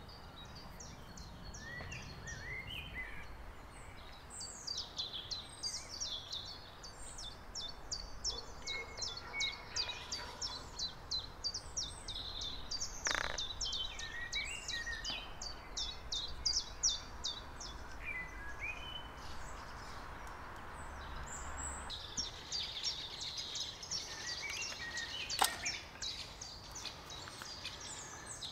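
Wild birds singing: long runs of quick, high chirps from several birds at once, with a couple of sharp clicks, one about halfway through and one near the end.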